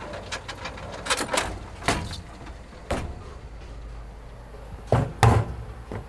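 A series of sharp knocks and bangs over a steady low background hum, the two loudest close together about five seconds in.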